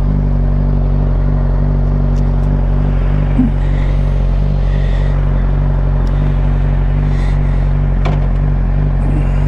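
2006 Suzuki GSX-R 600's inline-four engine idling steadily at a standstill.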